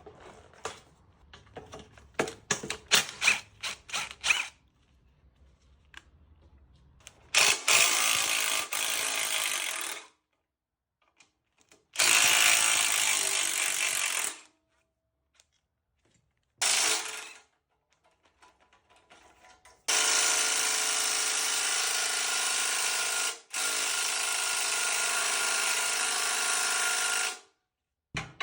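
A hand-held power tool, like a cordless drill/driver, runs in four long bursts of steady motor whine with pauses between, while parts of a Honda CBR954RR motorcycle are being unbolted. Before the first burst comes a quick series of sharp clicks and knocks.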